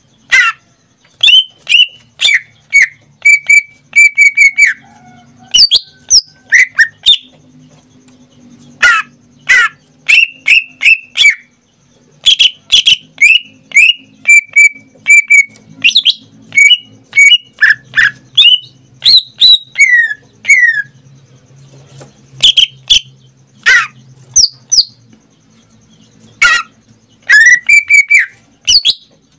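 Cucak ijo (green leafbird) singing loudly: a rapid run of short, sharp whistled notes and downward-sliding calls, with a few brief pauses.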